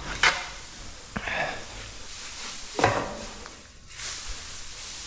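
Fresh, dry stall bedding being tossed into a horse stall: three rustling swishes as loads land and spread, with softer scuffing between them.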